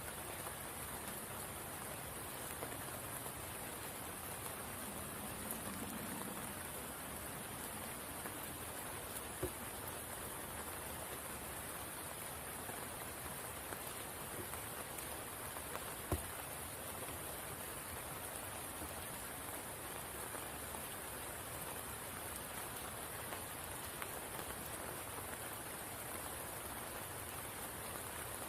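Steady rain falling on a spring pool, an even hiss with no breaks. A few louder single drops stand out, one about nine seconds in and a sharper one about sixteen seconds in.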